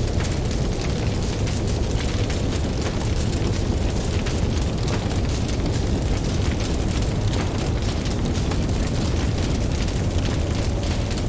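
Campfire crackling, with frequent small pops and snaps over a steady low rumble of ocean waves.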